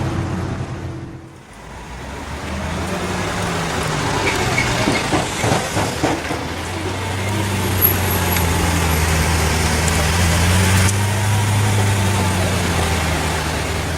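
Lamborghini Aventador's 6.5-litre V12 running at a low, steady speed, dipping briefly near the start, with a short run of sharp pops a few seconds in.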